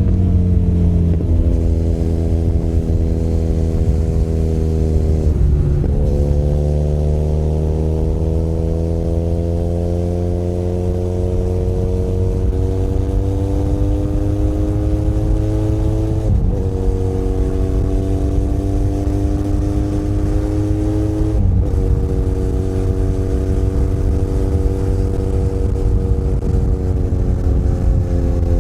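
Benelli Leoncino 500 Trail's 500 cc parallel-twin engine running on the road. Its pitch climbs slowly under throttle and drops sharply at each of four gear changes, over a steady low rumble.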